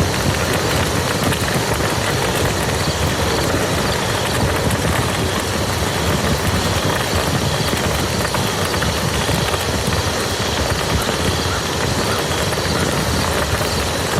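Rain falling steadily on a muddy field: a dense, even patter of drops that does not change.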